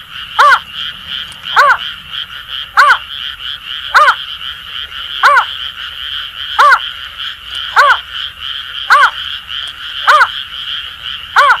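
Female greater painted-snipe giving a slow series of short hooting notes, about one every second, calling for a male. Behind it runs a steady chorus of Asian grass frogs.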